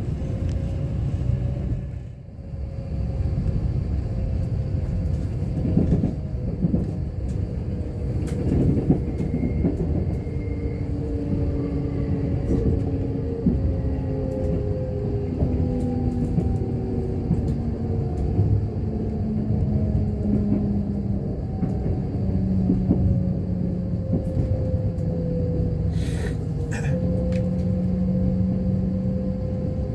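Cabin noise of a moving Kintetsu limited express train: a steady rumble of the running gear on the rails, with several humming tones that slowly slide and step in pitch. The sound drops briefly about two seconds in, and a few sharp clicks come near the end.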